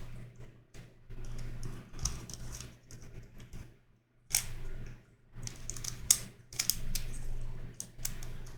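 A YuXin Corner Helicopter 2x2 plastic twisty puzzle being turned by hand: bursts of quick plastic clicks and rattles, with short pauses between them.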